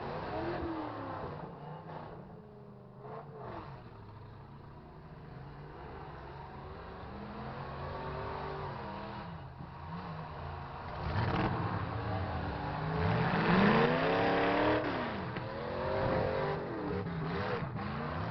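Several truck engines revving up and down at once in a demolition derby, the engine notes rising and falling over one another and getting louder about eleven seconds in. A few sharp knocks come near the middle and end.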